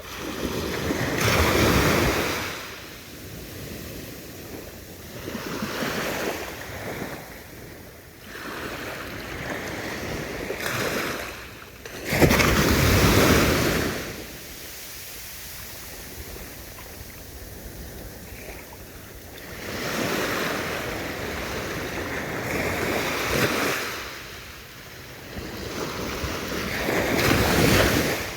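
Ocean waves breaking and washing up the shore in swells of rushing surf every few seconds, each surge building and then drawing back. The biggest wave breaks about twelve seconds in.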